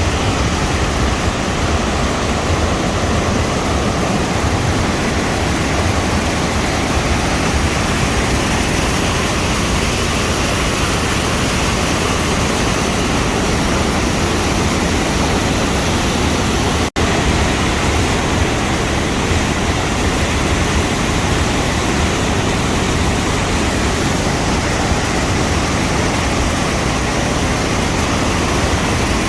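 Water rushing over a waterfall in flood: a loud, steady, even rush with no pitch or rhythm. It drops out for an instant about two-thirds of the way through.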